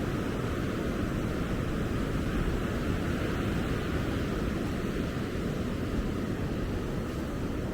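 Ocean surf washing onto the beach, a steady noise heaviest in the low end, with wind on the microphone.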